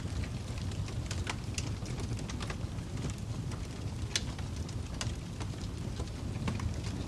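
Crackling fire: a steady low rumble with irregular sharp pops and snaps, the loudest about four seconds in.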